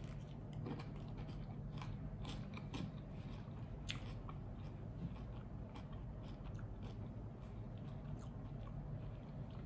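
A person biting into and chewing sourdough bread topped with salad, with scattered small crunches through the chewing.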